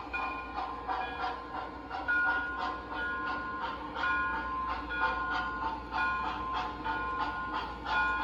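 MTH Premier USRA Pennsylvania 0-6-0 O-gauge steam locomotive's ProtoSound 2 sound system playing a steady steam chuff, about two chuffs a second, with short ringing tones over it.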